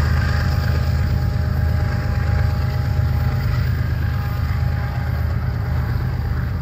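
Double-stack intermodal well cars of a freight train rolling past, a steady deep rumble of steel wheels on the rails.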